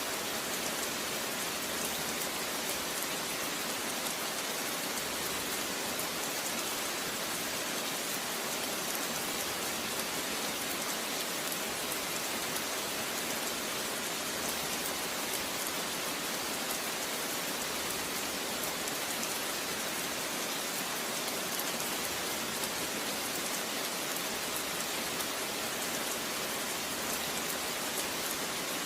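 Steady rain falling, an even hiss flecked with the patter of individual drops.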